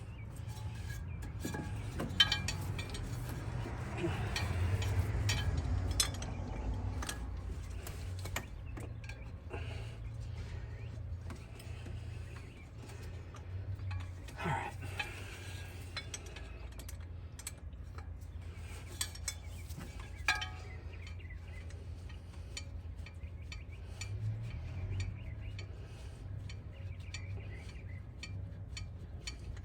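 Hand tools clinking and knocking on metal, with scattered sharp clicks, as an engine's air-conditioning compressor and its bracket are being unbolted. A steady low hum runs underneath.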